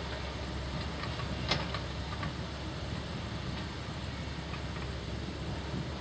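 Heavy diesel machinery running steadily, with a few light clicks and knocks, the sharpest about one and a half seconds in.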